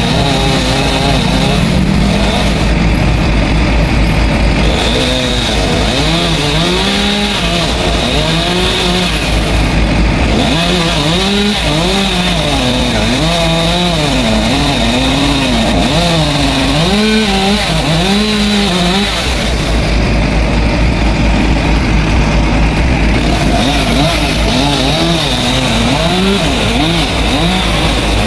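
Chainsaw running and cutting, its engine note rising and falling over and over as it loads in the wood, over a steady low engine rumble.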